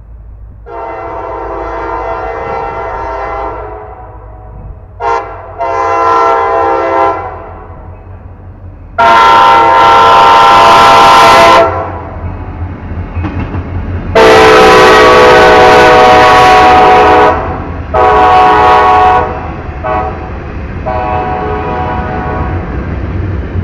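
Diesel freight train's locomotive air horn sounding a series of six blasts as it approaches, long and short. The two long blasts about nine and fourteen seconds in are the loudest. Underneath is a low rumble of the locomotives, then the rumble and clatter of freight cars rolling past.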